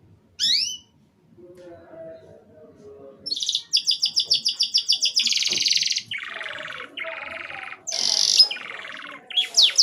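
Domestic canary singing: a short rising chirp about half a second in, then from about three seconds a fast trill of repeated notes, long buzzing rolls, and quick falling whistles near the end.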